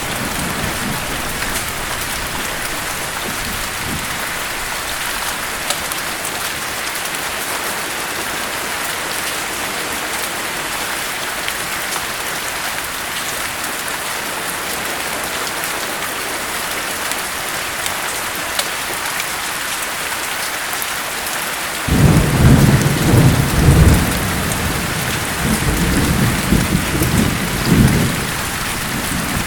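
Steady heavy rain hissing on surfaces, with a roll of thunder breaking in sharply about three-quarters of the way through and rumbling in surges until near the end.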